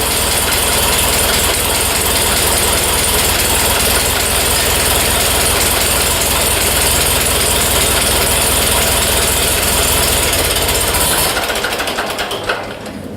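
1948 Co-op tractor engine running steadily at idle through its new muffler, with a low, even exhaust pulse. The sound drops away abruptly near the end.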